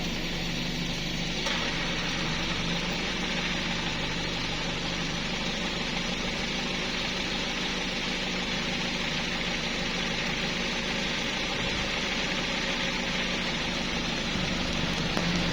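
An engine running steadily: a low hum under a continuous hiss, the hiss growing brighter about a second and a half in.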